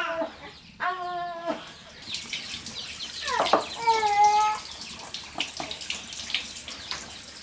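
Water running or splashing, starting about two seconds in as a steady hiss, with two drawn-out high calls, one before it begins and one over it.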